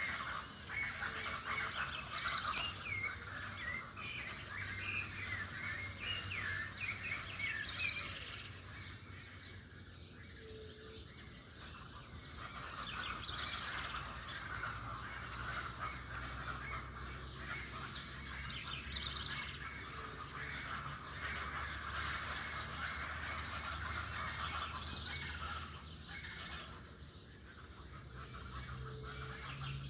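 A chorus of many birds chirping and singing, with overlapping quick trills, over a low steady hum.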